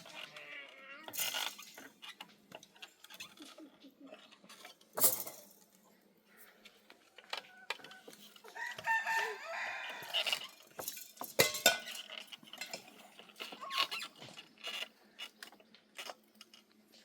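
Chickens clucking and a rooster crowing about halfway through, among scattered sharp knocks and clicks.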